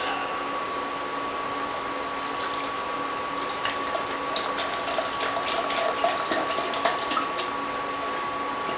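Chicken broth being poured into a heavy-bottomed pot, with quick splashing and gurgling ticks in the second half, over a steady background hum.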